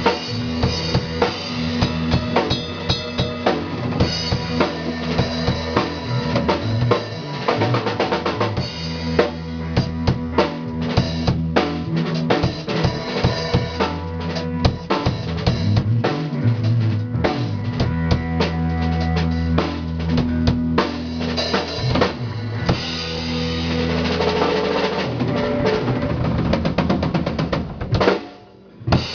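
Live band music through a PA system during a sound check: a drum kit played with kick and snare over sustained bass notes. The music breaks off abruptly for a moment near the end.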